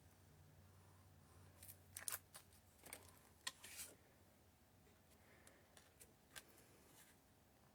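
Faint rustling and light taps of thick cardstock being handled and folded, mostly in a cluster of short sounds about two to four seconds in, with a few softer ticks later.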